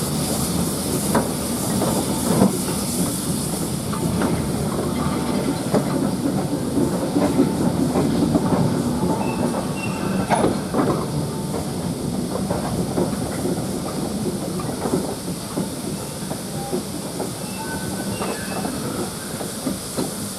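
A steam-hauled train running behind GWR Prairie tank locomotive 5526, a 2-6-2T: a steady rumble with wheels clicking over the rail joints and steam hissing, the hiss strongest in the first few seconds.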